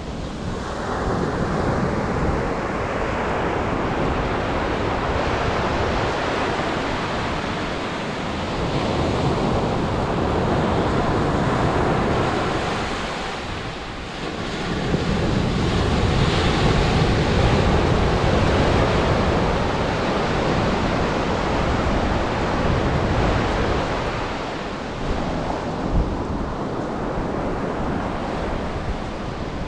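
Atlantic surf breaking and washing up the beach, the roar swelling and ebbing every several seconds, with wind buffeting the microphone.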